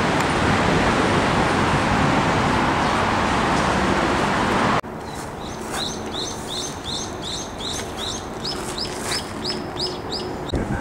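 A loud steady rushing noise cuts off abruptly about five seconds in. It gives way to a bird calling a rapid run of repeated high chirps, about two to three a second, lasting some five seconds.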